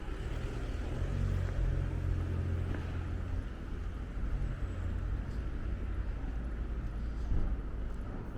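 A motor vehicle's engine rumbling close by on a city street, heaviest for a couple of seconds starting about a second in, over steady street ambience.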